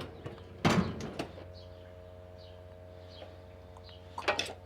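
A knock about a second in and a few lighter clicks and rattles near the end, the sound of objects being handled, over a steady hum.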